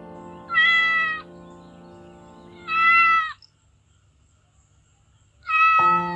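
Domestic cat meowing three times, each meow short and clear, about two and a half seconds apart. Soft background music with held notes plays under it, dropping out after the second meow and coming back with the third.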